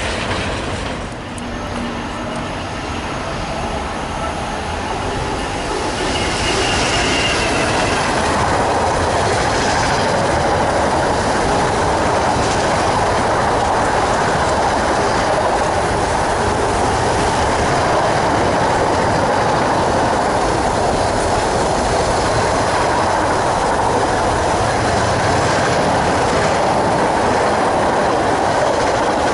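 Freight train rolling past on the main line: a continuous clatter of wagon wheels over the rails, growing louder about six seconds in. There is some thin wheel squeal.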